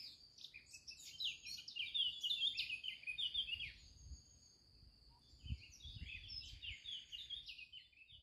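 Small birds chirping, with many short high chirps and trills overlapping and a faint low background rumble.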